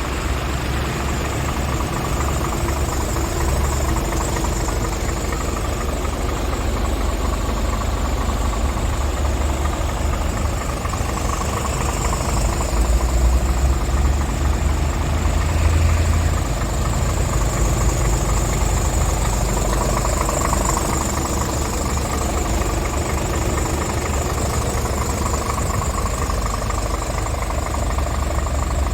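Scania R450 tractor unit's 13-litre inline-six diesel idling steadily, with a deep low rumble.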